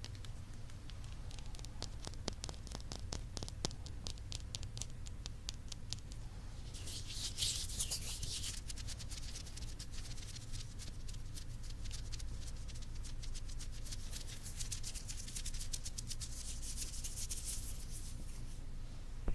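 Fingertips tapping rapidly and rubbing on the ears of a binaural ASMR microphone, with crisp close-up taps several times a second. Two stretches of denser rubbing and scratching come in, about seven seconds in and again near the end.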